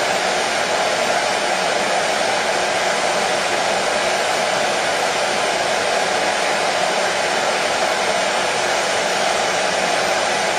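Hair dryer running steadily, a constant airy whir that does not change in pitch or level.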